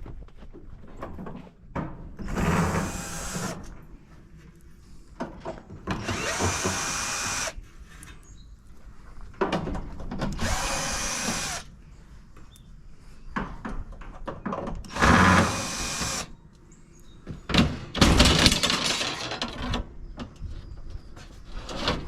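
Power drill running in about five short bursts of a second or so each, taking screws out of a scrap appliance, with lighter knocks and clatter of metal parts between the bursts.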